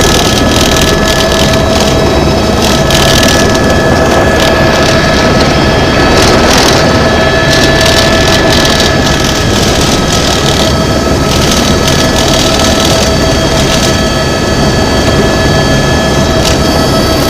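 Tour helicopter's turbine engine and rotor running steadily on the ground before takeoff: a loud, even noise with a constant high whine.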